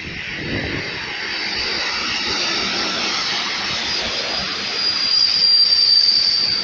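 A passenger train hauled by a diesel locomotive rolls slowly past, its wheels running on the rails. A thin, high wheel squeal builds in the second half and is loudest near the end.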